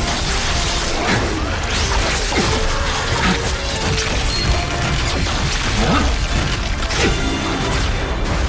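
Soundtrack music layered with battle sound effects: mechanical clanking, crashes and repeated whooshing sweeps.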